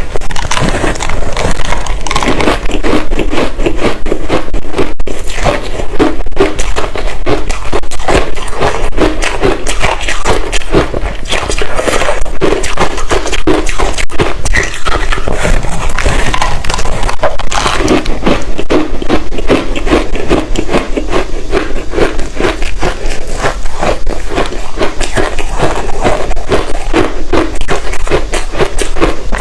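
Close-miked mouth chewing of hard ice chunks coated in matcha powder: rapid, continuous crunching and crackling as the ice is bitten and broken up.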